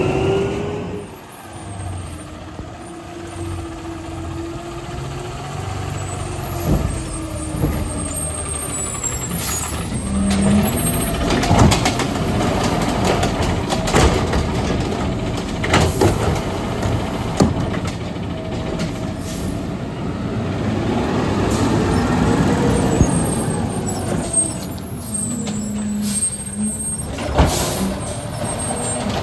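Automated side-loader garbage truck working its route: the diesel engine and hydraulics rise and fall in pitch as the arm lifts and dumps a cart, with several sharp bangs of the cart being slammed against the hopper.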